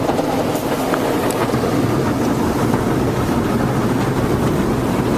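Automatic car wash at work on a minivan, heard from inside the cabin as a loud, steady rush of noise.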